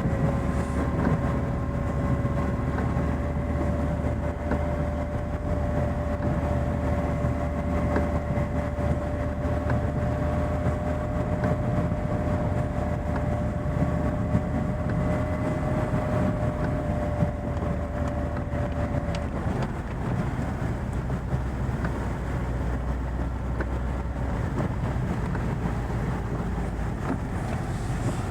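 Chevrolet Niva driving steadily through snow, its engine and drivetrain giving a low continuous rumble with a faint, slightly rising whine that fades out about two-thirds of the way through.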